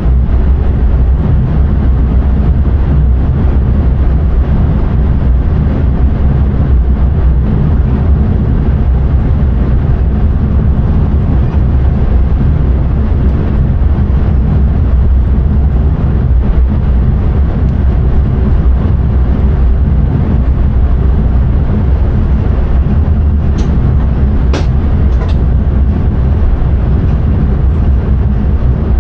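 Train cab noise at speed: a steady, loud low rumble of the train running along the track. A few brief sharp clicks come near the end.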